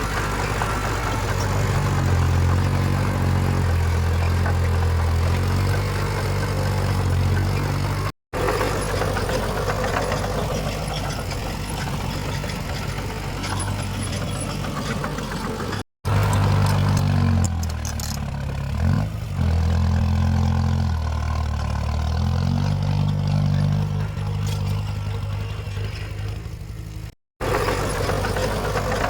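Heavy diesel engines of earthmoving machinery running and revving up and down under load, in several clips joined by brief cuts to silence.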